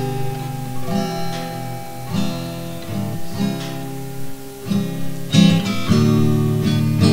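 Acoustic guitar strumming slow, ringing chords, one stroke about every second, in an instrumental gap between sung lines.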